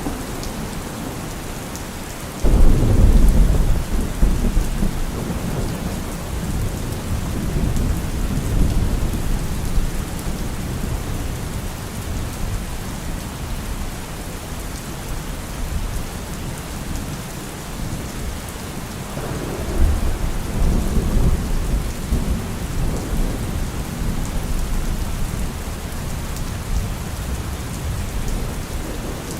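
Heavy rain drumming steadily on a car roof, with thunder: a sudden rumble breaks out a few seconds in and rolls on for several seconds, and a second, weaker rumble comes about two-thirds of the way through.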